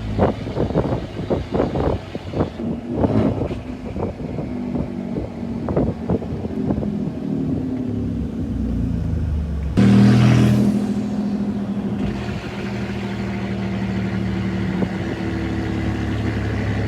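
2020 Ford F-150's twin-turbo EcoBoost V6 running, uneven at first, then settling into a steady note. About ten seconds in it suddenly gets louder as the engine comes on load, and a high turbo whistle rises for about a second before it settles back to a steady run.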